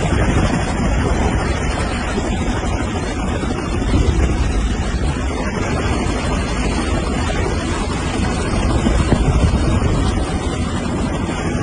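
Loud, steady rushing noise, strongest in the low end, with no distinct tones or strikes.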